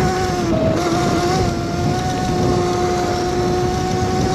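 Electric motor and chain drive of a modded Razor MX650 electric dirt bike whining at a steady pitch under way, dipping briefly about half a second in, over a steady rushing noise of wind on the camera.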